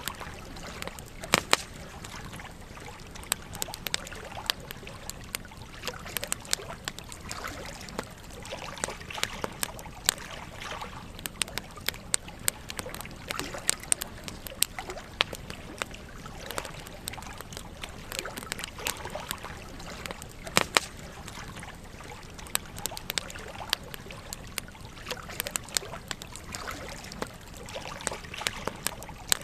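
Campfire burning: continuous crackling of wood with frequent sharp pops, the loudest about a second and a half in and again around twenty seconds in, over a steady background hiss.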